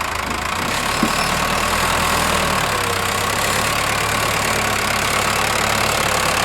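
Diesel tractor engine running steadily, with a faint steady whine coming in about halfway through.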